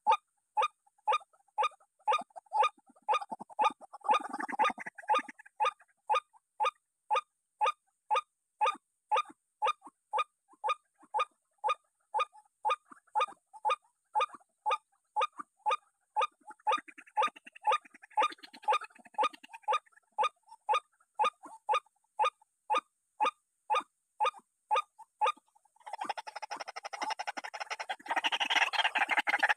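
White-breasted waterhen call: a short note repeated steadily, about twice a second. A few seconds before the end, a denser, louder continuous sound joins in.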